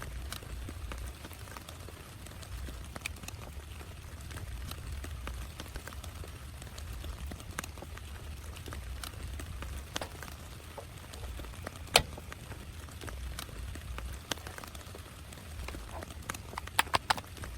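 Heavy rain on a tent: a steady patter with a low rumble, and scattered louder drops tapping the fabric, with one sharp tap about twelve seconds in and a quick run of taps near the end.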